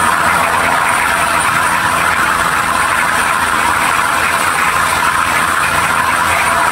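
Passenger train running along the track, heard from an open carriage window: a steady, loud rushing noise of the moving train and the air going past, with no breaks.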